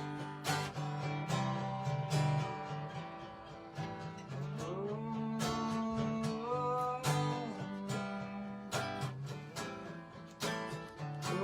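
Acoustic guitar strummed in steady chords during an instrumental stretch of a song, with some wordless singing over it midway.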